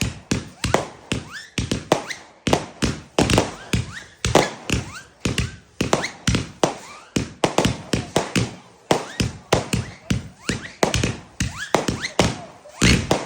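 A firework cake firing a rapid barrage of shots, several a second, each a sharp bang, with faint short rising whistles among them.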